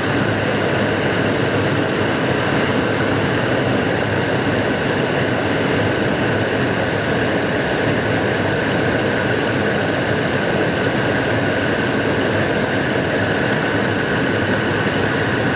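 2006 Dodge Dakota engine idling steadily. It has a slight, intermittent random misfire, which the scan tool puts on cylinder number 5.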